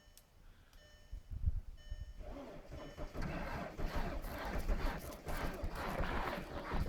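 A VW TDI diesel's starter cranking the engine at −28 °C, with fast, regular pulses that begin about two seconds in. The engine does not catch. Before the cranking, short electronic beeps repeat about twice a second.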